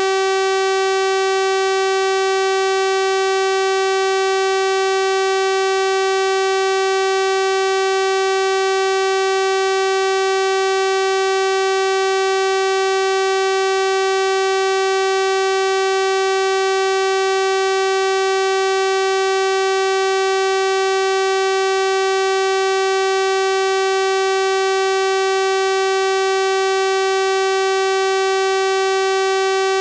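Synthesized 384 Hz sawtooth-wave tone, held steady at one pitch with a bright, buzzy stack of overtones.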